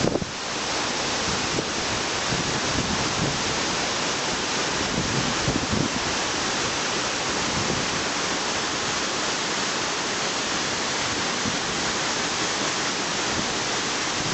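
A waterfall's steady rush of falling water, a continuous even noise.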